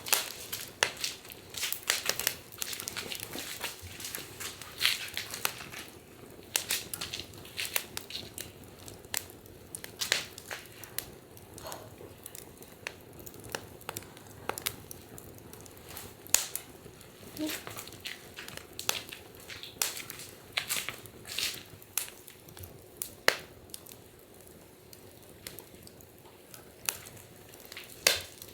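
Wood fire crackling, with irregular sharp pops, thickest in the first few seconds.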